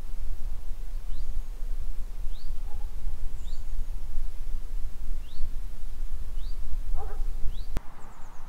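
A small bird repeatedly giving short, high, upward chirps, about one a second, over a steady low rumble of wind on the microphone. The background changes abruptly near the end.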